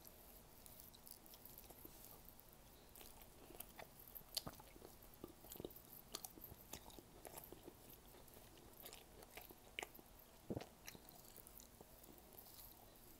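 Faint close-up sounds of a person chewing and eating squid by hand: soft mouth clicks and smacks, with a sharper click about four seconds in and another about ten seconds in.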